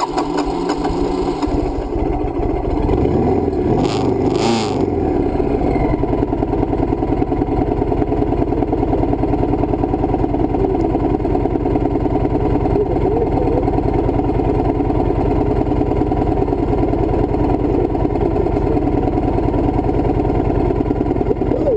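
Motorcycle engine running steadily with a fast even pulse, just started after the bike was dropped in a crash; it is briefly revved about four seconds in.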